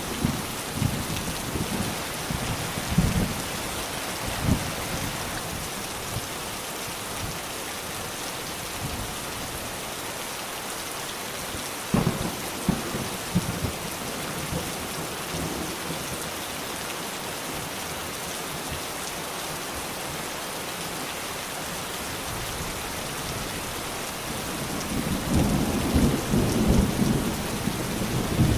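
Steady rain falling, with irregular low rumbles in the first few seconds, a single sharp knock about twelve seconds in, and a louder spell of low rumbling near the end.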